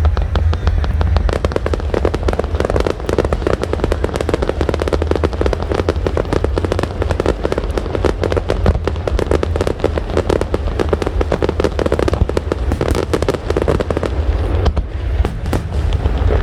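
Fireworks display: a dense, rapid run of bangs and crackles from aerial shells, over a steady low rumble.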